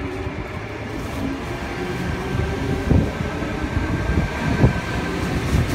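Tangara electric train pulling out of the platform, a rumbling run of passing cars that grows a little louder, with two sharp thumps about halfway through.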